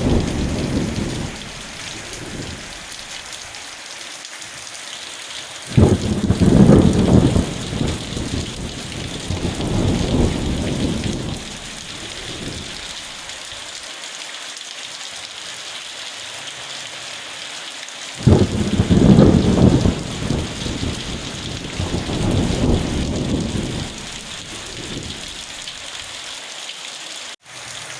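Steady heavy rain hissing, with rolling thunder. One rumble is fading in the first second, then two more break out suddenly about six and eighteen seconds in, each rolling on in several swells for five or six seconds.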